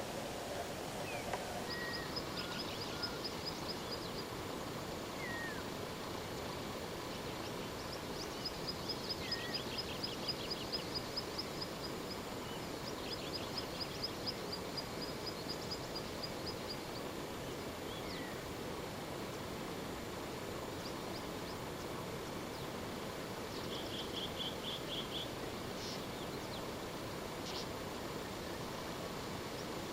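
Wild birds calling outdoors: several rapid, high trills lasting a few seconds each, plus a few short whistled notes, over a steady background hiss.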